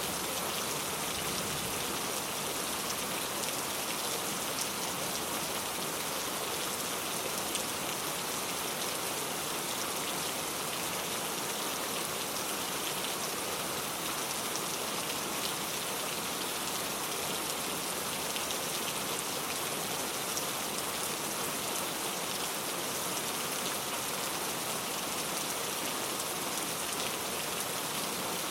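Steady rain falling: an even hiss with scattered ticks of single drops striking a surface.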